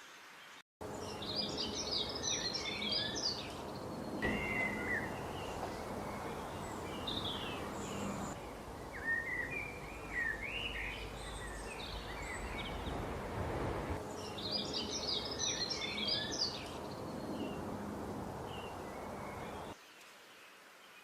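Several small birds chirping and calling over a steady background hiss. There are dense bursts of quick high chirps near the start and again about three-quarters through, with scattered gliding calls in between. The sound cuts in suddenly just under a second in and drops away near the end.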